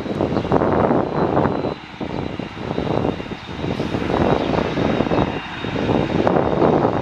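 Jet airliner engines running loud: a rough rumble that swells and dips, with a thin steady high whine through it.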